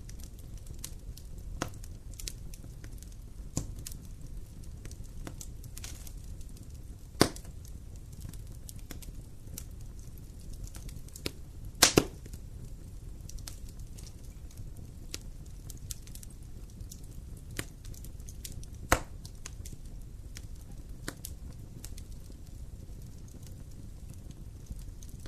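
Campfire burning: wood crackling with scattered sharp pops over a steady low rumble of flame, the loudest pops about seven seconds in, a quick double pop about twelve seconds in, and another about nineteen seconds in.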